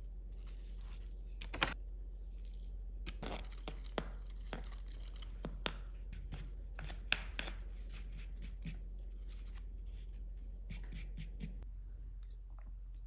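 Hands at work: scattered clicks, tearing and rustling sounds over a steady low hum, with a few sharp clicks standing out.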